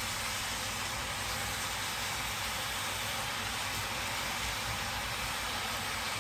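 Cabbage sizzling as it wilts down in a large pot on the stove: a steady, even hiss.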